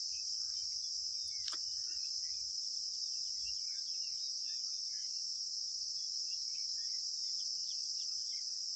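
Steady high-pitched chirring of crickets, with one faint click about one and a half seconds in.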